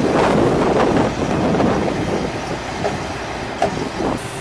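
Heavy machinery running, with scattered metallic clanks, loudest in the first second and a half.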